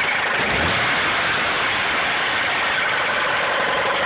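Isuzu Impulse engine running at a steady speed with severe rod knock: a rapid, continuous knocking from a worn-out connecting-rod bearing.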